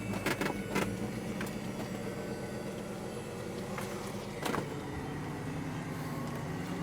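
A few sharp clicks and knocks, like things being handled, over a steady low hum.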